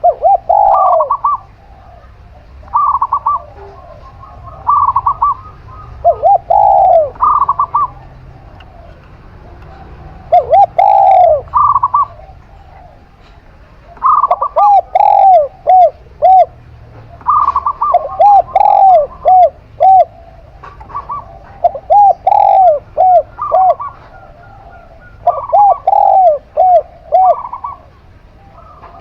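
A zebra dove (perkutut) and a spotted dove (tekukur) cooing together, their phrases repeating every second or two and often overlapping. One voice gives higher notes and the other strings of three to five lower, arched coos.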